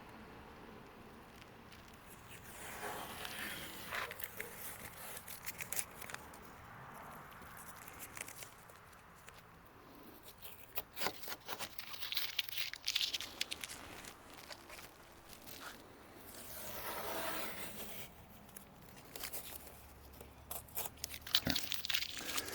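Soft handling noises of a ceramic spray sealant being applied to car paint: several swishing rubs of a microfiber towel and spray-bottle hisses, with scattered small clicks in between.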